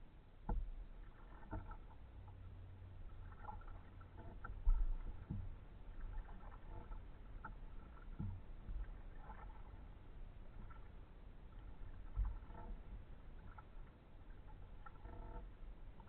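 Kayak paddling: the paddle dipping and moving water, with a few sharp low thumps, the loudest a little under five seconds in.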